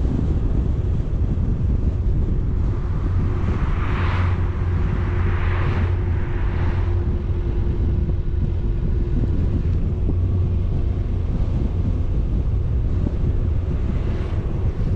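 Steady road and engine rumble of a moving vehicle with wind buffeting the microphone, and two brief rushing swells about four and six seconds in.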